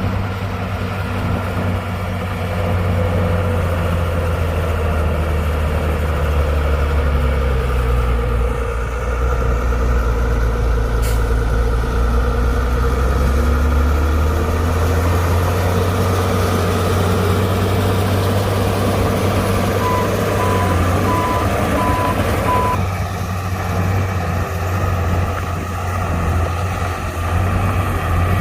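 Heavy diesel engines of a bulldozer and a dump truck working steadily, the engine note rising and falling under load. A reversing alarm beeps five times about two-thirds of the way in.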